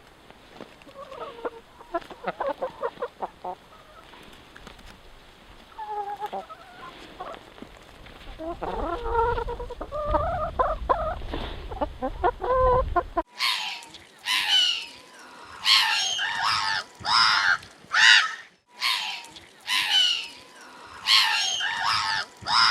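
Chickens clucking in short, soft repeated calls. After a sudden cut about 13 seconds in, a louder, higher-pitched run of sharp calls comes at about two a second.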